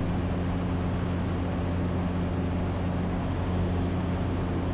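Ikarus C42 light aircraft's engine and propeller droning steadily in flight, heard from inside the cockpit as an even, low hum.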